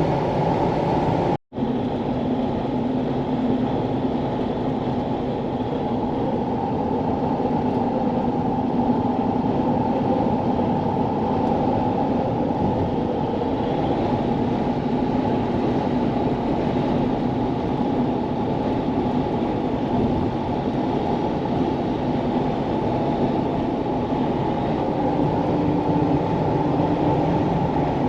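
Steady engine and tyre noise of a vehicle cruising on a highway, heard from inside the cabin: an even low rumble with a faint steady drone. The sound cuts out for an instant about a second and a half in.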